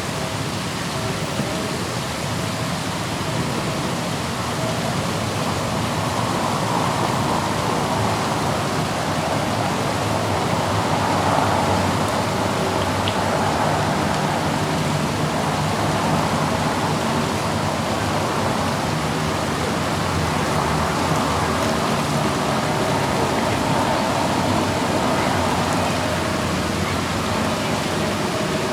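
Steady road and engine noise of a moving car heard from inside: a low hum under an even rushing hiss that swells and eases gently, played as a white-noise sleep sound.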